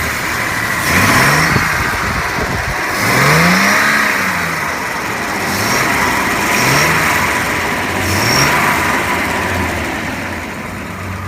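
Jaguar XJ6 straight-six engine running, revved in five quick throttle blips that rise and fall in pitch. It is missing a little on one or two cylinders, which the owner puts down to worn spark plug leads and plugs.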